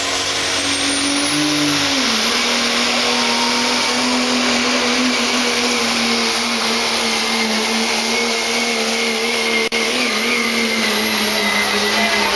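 Turbocharged diesel pickup running at full throttle under the load of a pulling sled. The engine drone is steady, with a high, steady turbo whistle over it. The engine note sags slightly about two seconds in.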